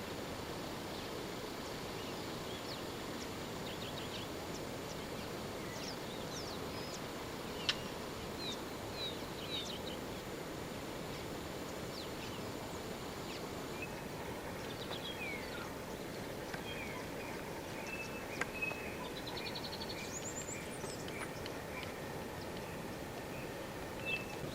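Various birds chirping and trilling in short calls over a steady background hiss, with a brief sharp click about 8 s in and another about 18 s in.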